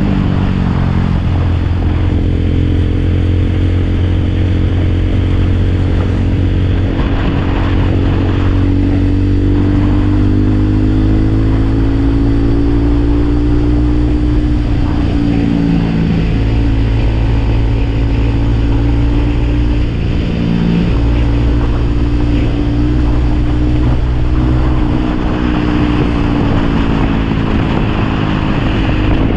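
Motorcycle engine running while riding, a steady loud drone whose pitch slides up and down several times as the throttle changes.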